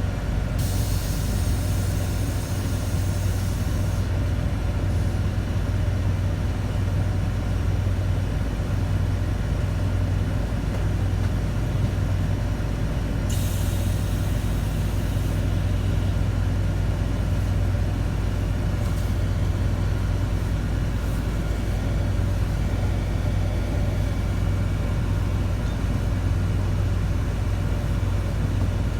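Scania city bus running steadily with a low engine hum, heard from on board. Two hisses of compressed air from the bus's pneumatics: a longer one about half a second in and a shorter one around thirteen seconds in.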